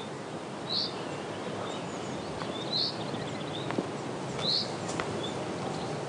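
Outdoor ambience: a bird repeating a short high call about every two seconds over a steady background hiss, with a couple of faint clicks.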